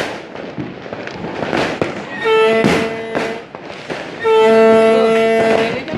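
Firecrackers and fireworks going off in repeated sharp bangs and crackles. Twice a horn blows a steady held note, the first about a second long, the second longer.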